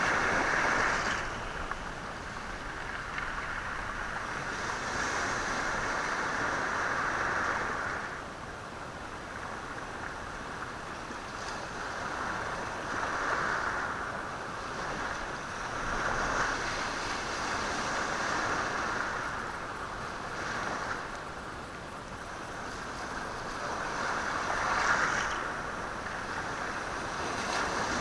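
Sea waves washing over a stony shore, the stones rattling and hissing as the water surges in and draws back. The wash swells and ebbs in uneven surges every few seconds.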